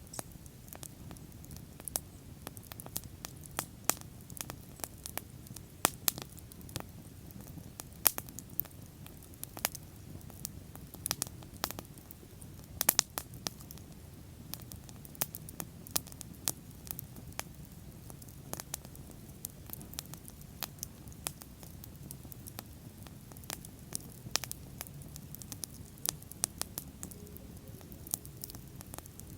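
Wood fire burning steadily, with a low rumble and frequent irregular sharp crackles and pops.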